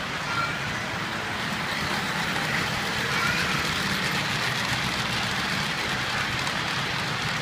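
Gauge 1 model trains running on a large layout's track: a steady rolling rattle, with a couple of faint brief wheel squeaks.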